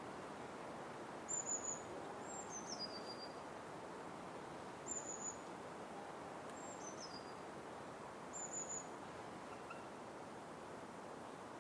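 Small bird calling in a forest: three short, high chirps, each followed a moment later by a high whistle that steps down in pitch, over a steady background hiss of forest ambience.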